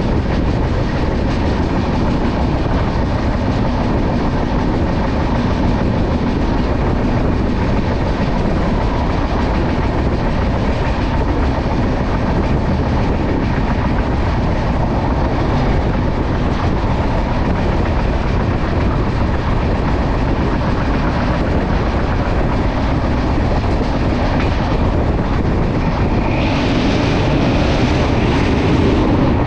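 Passenger train running at speed, heard from an open coach door: a steady, loud noise of the wheels on the rails. Near the end the sound turns brighter and louder as the train crosses a bridge.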